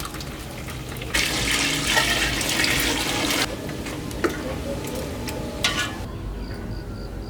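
Water running or pouring for about two seconds, followed by a few light clicks and knocks.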